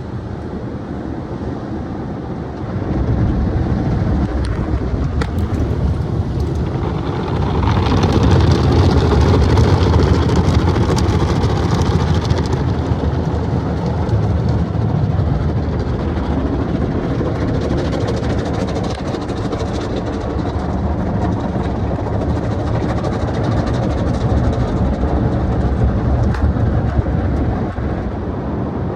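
Automatic car wash machinery running: a steady loud rush of spraying water and rumbling equipment. It grows louder about 3 seconds in and again about 7 seconds in, with extra hiss until about 12 seconds, then settles into a steady rush.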